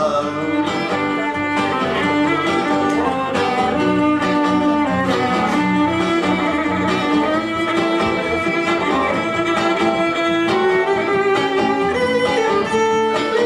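Instrumental break of a song: a violin plays a melody of held notes over a guitar accompaniment.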